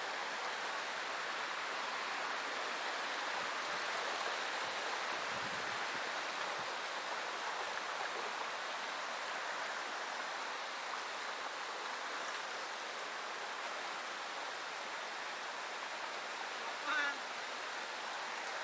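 Steady rush of falling and flowing water from a waterfall and its stream, with a brief, short high sound near the end.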